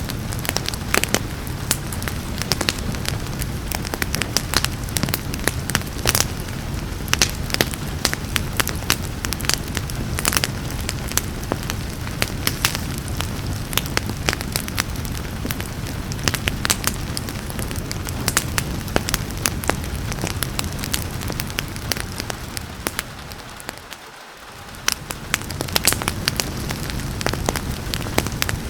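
Wood fire crackling with frequent sharp pops over a steady hiss of rain. Near the end the whole sound briefly fades down and then swells back.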